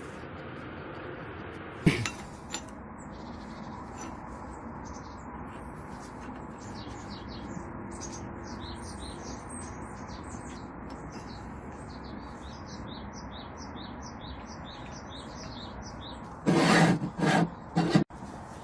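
Small birds chirping over a steady hiss, with a sharp knock about two seconds in and a quick run of loud knocks near the end.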